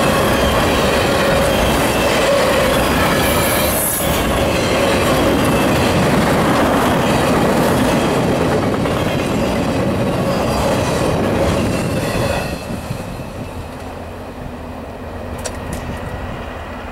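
Autorack freight cars rolling past close by, a steady rumble of wheels on rails with a held squeal from the wheels. About twelve seconds in, the last car goes by and the sound drops away as the train moves off.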